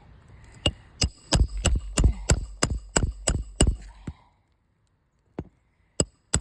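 Repeated hammer blows on a shingle roof, about three a second for some three seconds, then a pause and a few single strikes near the end.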